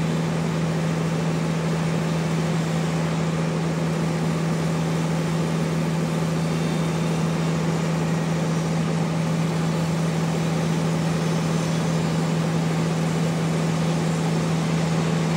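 Sawmill machinery running steadily with a strong low, even hum and a constant rushing noise over it.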